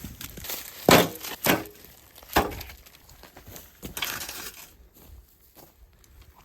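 Pieces of firewood knocking and clattering: three sharp knocks in the first two and a half seconds, then a rustling scrape about four seconds in.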